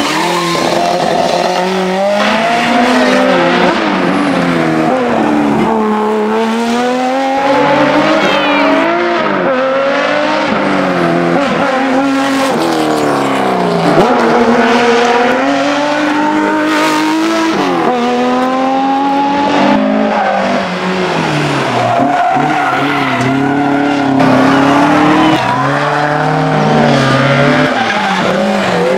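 Historic rally car engine running hard and loud, its pitch climbing and dropping again and again as it accelerates, shifts gear and lifts off for corners.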